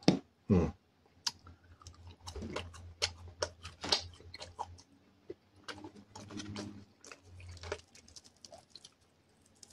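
A person chewing a fried chicken nugget dipped in chili sauce: a run of irregular, crisp crunching clicks from the coating, with soft mouth sounds, for several seconds.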